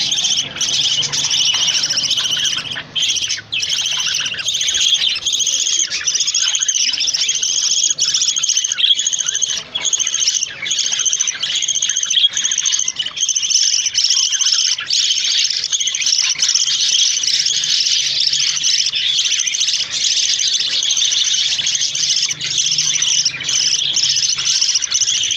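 Many small cage birds chirping and twittering together, a dense, unbroken high chatter that never lets up.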